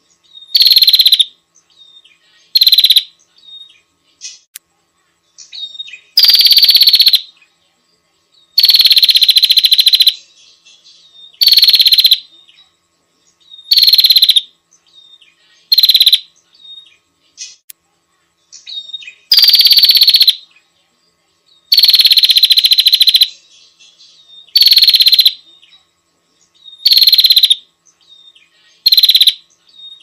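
Prenjak lumut bird-lure recording: loud calls repeated every one to two seconds, a few held longer than the rest, with faint chirps in the gaps.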